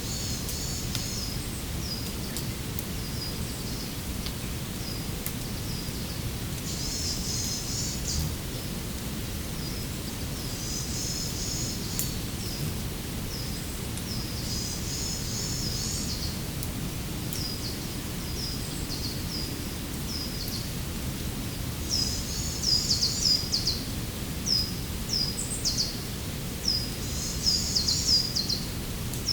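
Small songbirds calling with clusters of short, high, quickly repeated notes, coming more often and louder in the second half, over a steady low rushing background noise.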